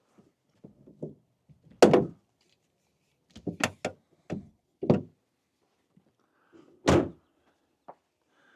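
Minivan doors and gear being handled: a string of knocks and thumps, the loudest about two seconds in and again about seven seconds in, with a quick run of knocks in between.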